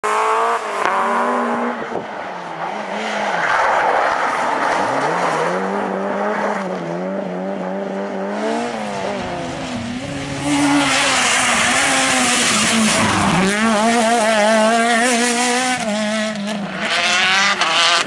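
Rally car engine driven hard, its pitch rising and dropping with gear changes and lifts off the throttle; the sound starts abruptly. About ten seconds in, a loud hissing rush joins the engine for several seconds.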